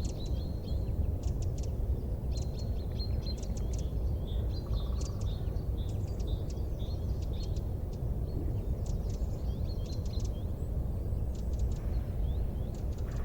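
Small birds chirping in quick strings of short, high notes, over a steady low rumble.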